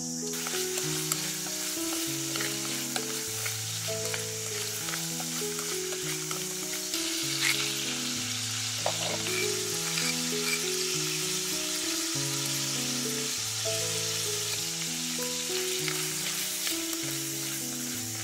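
Shrimp sizzling as they fry in hot oil in a pan, with light clicks and scrapes from stirring. The sizzle starts abruptly at the start. A soft background melody plays throughout.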